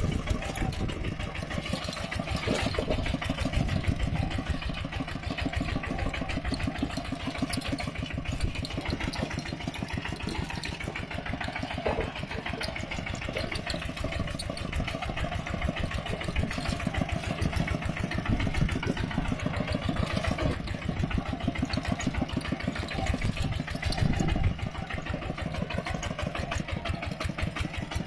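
Mini tractor engine running steadily, with a fast, even firing beat.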